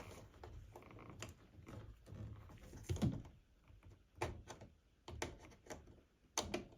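Scattered plastic clicks and knocks as the vibration sensor's retaining clip is pushed up and the sensor is worked loose and pulled off the washing machine's tub.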